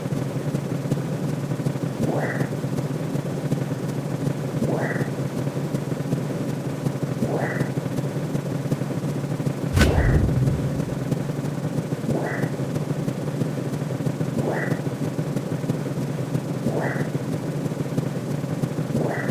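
Synthetic sound-effect track: a steady low hum with a short rising swoosh repeating about every two and a half seconds, and one sudden deep cinematic bass hit about ten seconds in.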